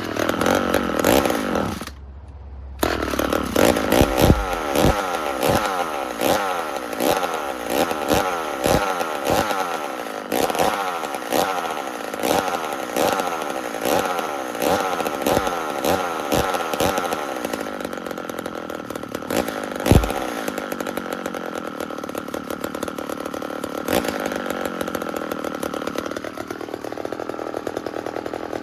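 McCulloch Mini Mac 35 two-stroke chainsaw, cold-blooded: it starts, cuts out after about two seconds, catches again and runs with its speed surging and sagging over and over. It settles into a steadier, higher run near the end.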